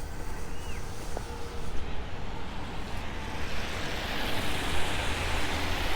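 City street traffic: a vehicle's noise swells over the second half as it draws near, over a steady low rumble of wind on the microphone.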